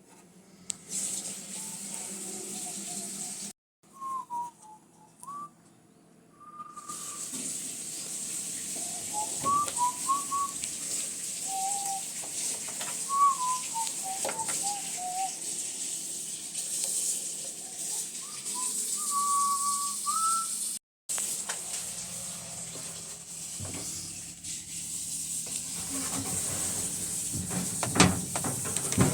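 Scattered short whistled notes and pitch glides, some held briefly, over a steady hiss.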